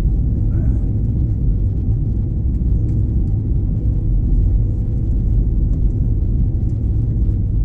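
Steady low rumble inside the cabin of an Airbus A321 airliner, the engine and airflow noise heard from a window seat, with a faint steady hum above it.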